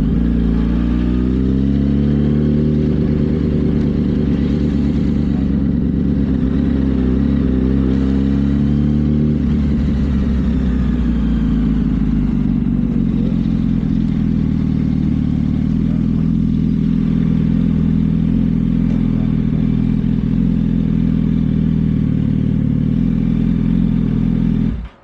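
Yamaha R1's inline-four engine running under way, rising in pitch as it accelerates over the first couple of seconds and again around eight seconds in, then holding a steady note. The sound drops away suddenly near the end.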